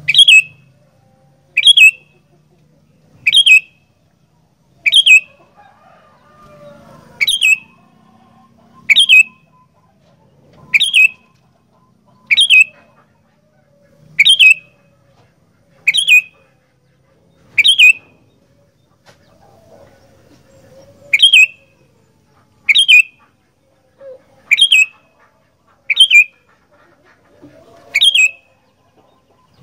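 Sooty-headed bulbul (kutilang) giving a short, sharp call over and over, about one every one and a half to two seconds, with a longer pause about two-thirds of the way through.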